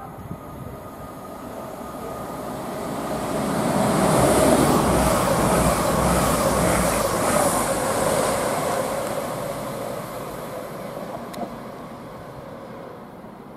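A Class 222 Meridian diesel train passing at speed: its running noise swells over about four seconds, stays loud while the coaches go by, then fades away.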